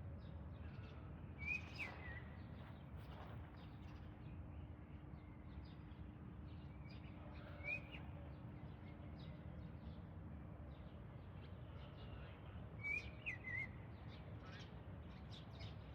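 A bird giving three short, curling chirps several seconds apart, over a steady low background rumble.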